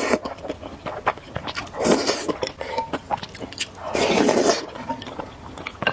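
Close-miked noodles being slurped, in two long slurps about two and four seconds in, with wet chewing and mouth clicks between.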